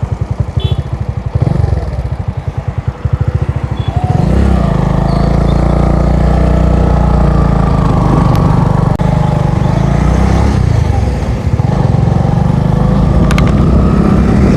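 Motorcycle engine ticking over with a pulsing beat, then pulling away about four seconds in and running steadily under load.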